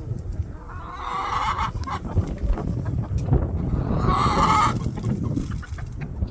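Chickens calling, with two loud squawks about three seconds apart, each lasting under a second.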